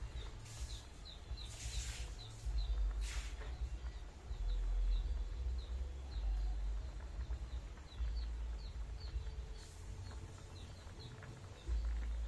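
A small bird chirping over and over, short high chirps a few times a second. Under it is a low rumble, with a few brief hissing swishes in the first few seconds.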